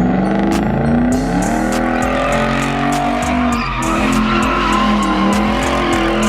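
A car drifting: the engine revs hard, its pitch climbing then dropping back about three and a half seconds in, while the tyres squeal and skid on the pavement.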